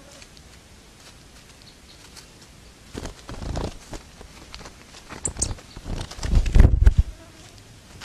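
Trapped birds moving about in dry straw inside a mesh trap close to the microphone: rustling and fluttering that start about three seconds in and grow louder, with the loudest buffeting bursts about six to seven seconds in.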